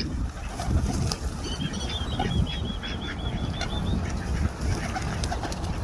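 Wild birds calling around a pond: a rapid, evenly spaced high trill of about fifteen notes starting about a second and a half in, with scattered short chirps, over a steady low rumble.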